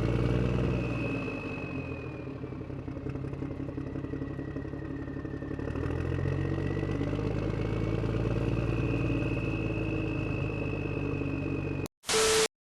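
Motor vehicle engine running steadily with a faint high whine above it; the engine note shifts about six seconds in. A short loud burst of noise cuts in near the end.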